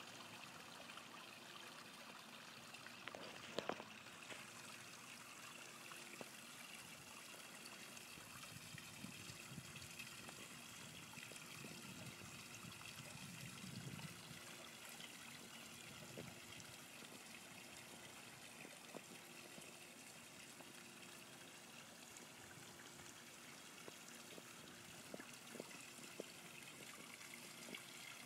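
Backyard pond waterfall trickling and splashing steadily and softly, with a couple of sharp clicks about three and a half seconds in.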